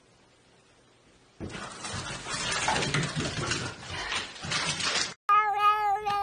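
A cat meowing: one long, drawn-out yowl at a steady pitch, starting suddenly about five seconds in. Before it, after near silence, comes a few seconds of rough hissing noise.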